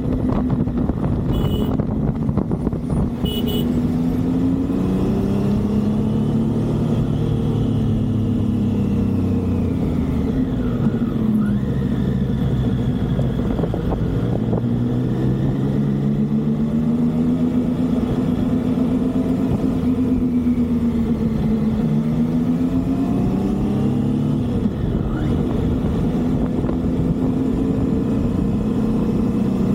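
Motorcycle engine on the move, its pitch rising and falling several times as the throttle opens and eases off, over a steady rush of wind and road noise. Two short clicks come in the first few seconds.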